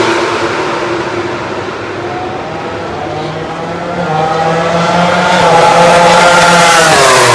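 MotoGP racing motorcycles at high revs passing on the track. One fades away with its engine note dropping at the start. Another approaches, growing louder, and its note drops sharply as it passes near the end.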